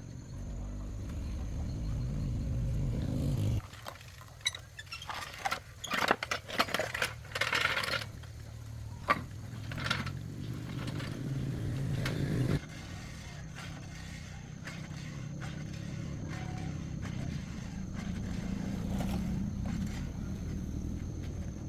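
Small diesel tractor engine running with a steady low rumble, broken by a few seconds of sharp metal clanks and knocks in the middle, with abrupt changes where the sound is cut.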